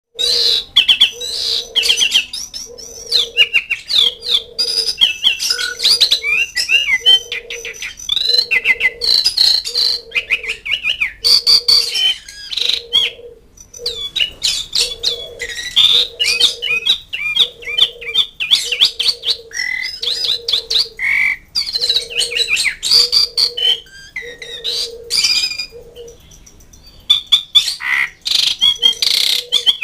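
Asian pied starling (jalak suren) calling: a fast, varied run of chattering, squawking and whistled notes with clicks, broken by brief pauses, used as a call to lure birds and provoke rivals. A low note pulses about once a second underneath.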